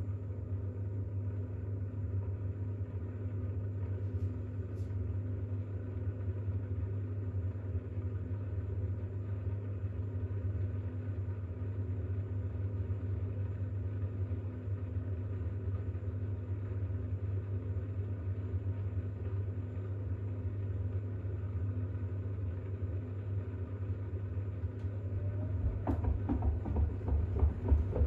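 Bosch WAX32GH1 washing machine in an intermediate spin with an unbalanced load of towels: a steady low motor and drum hum. Near the end it turns into a louder, pulsing rumble.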